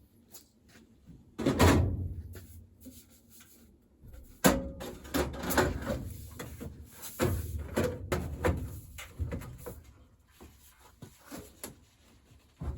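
Irregular knocks, clunks and rattles of objects being handled and set down, loudest about a second and a half in and again about four and a half seconds in, with a busier cluster after the middle.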